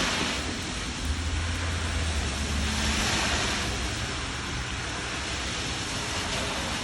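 Heavy rain coming down in a steady hiss that swells and eases. A low rumble runs under it from about one to three seconds in.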